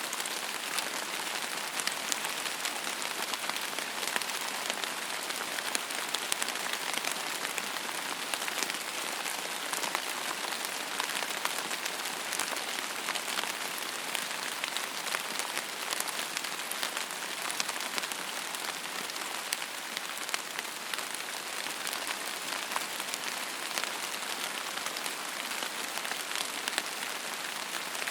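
Steady rain falling on a surface: an even hiss full of close, individual drop ticks, keeping the same level throughout.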